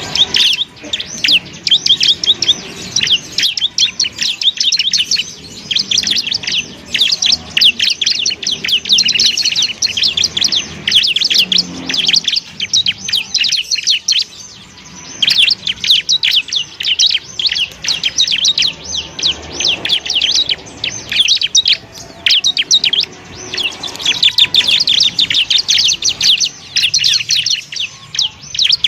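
Ciblek (bar-winged prinia) singing a fast, high, chattering run of chirps, with a brief break about halfway through.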